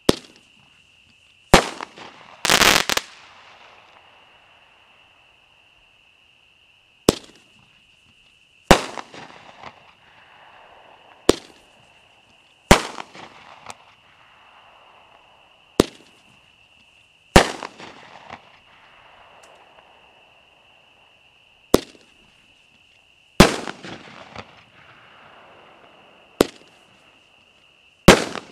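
Consumer 1.4G aerial firework cakes firing single shots. Each shot is a sharp lift thump followed about a second and a half later by the bang of the shell breaking, with a short trailing crackle. This happens about seven times, with a steady high insect trill in between.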